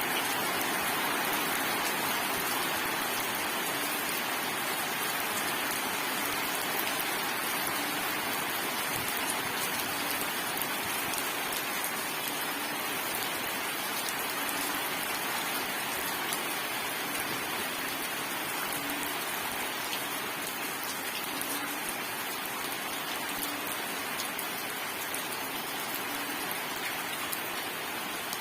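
Steady heavy rain falling, an even, unbroken hiss of many drops with no thunder.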